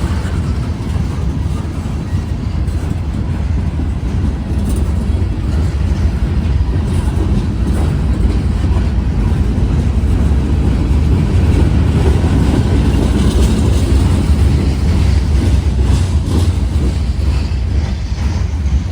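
Freight train rolling past close by: a steady, heavy rumble of railcars on the rails, with scattered light clicks and clanks over it.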